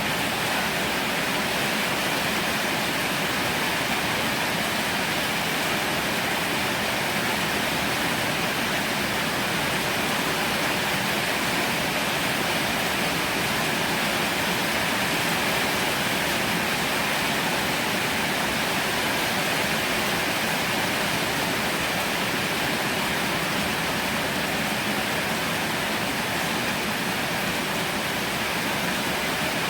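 Heavy rain falling in a steady, dense hiss, with no let-up or breaks.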